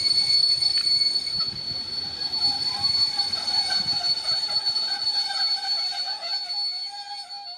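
Train wheels squealing against the rails over the rumble of the moving train: a steady high-pitched squeal, joined about two seconds in by a lower, wavering squeal. The rumble fades and the sound cuts off suddenly at the end.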